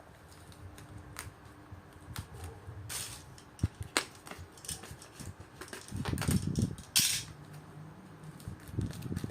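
Cardboard phone box and its packaging being handled and opened: scattered sharp clicks and taps, with two short rustling bursts about three and seven seconds in and a few dull thuds between them.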